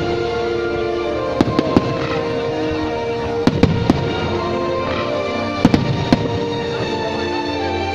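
Fireworks going off in three clusters of two or three sharp bangs, about two seconds apart, over steady background music.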